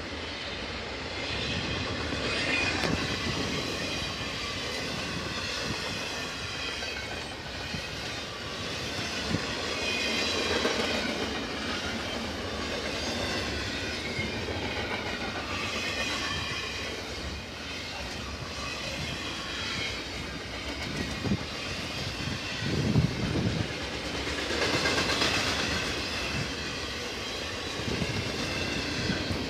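Freight train rolling past, its cars' steel wheels running over the rails in a continuous clatter that swells and eases several times.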